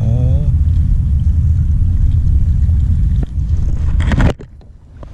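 Heavy low wind rumble buffeting the microphone. About four seconds in comes a brief rustling burst, and then the rumble cuts off suddenly.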